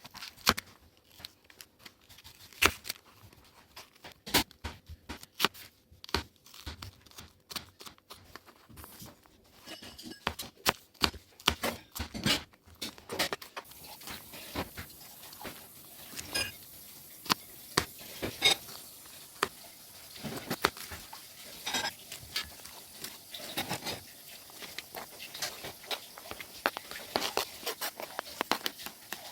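Irregular sharp snaps and crackles of dry wood and kindling at a campfire. A faint steady hiss joins in about fourteen seconds in.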